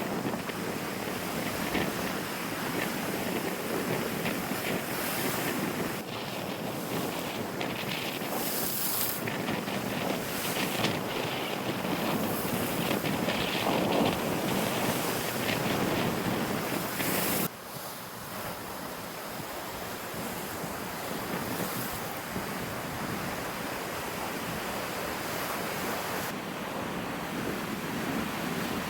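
Lake Huron waves washing onto the shore, with wind buffeting the microphone. The sound drops suddenly in level about two-thirds of the way through.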